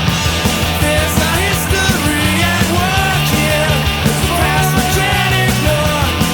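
Loud punk/post-hardcore rock recording: distorted electric guitars, bass and drums playing steadily, with a melodic line bending up and down in pitch over them.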